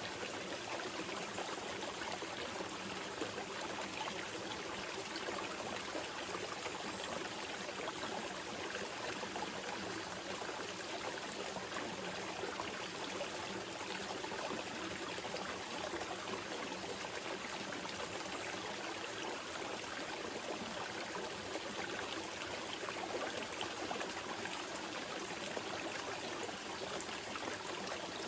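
Small river flowing steadily over rocks, an even rush of water with small trickles and splashes mixed in.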